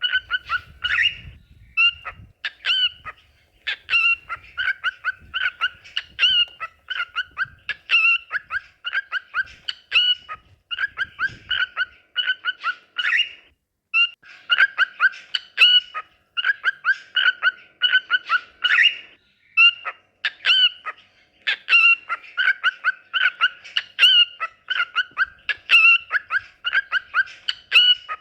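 Cockatiel singing: quick, repeated chirping whistles, several notes a second, broken by a few short pauses.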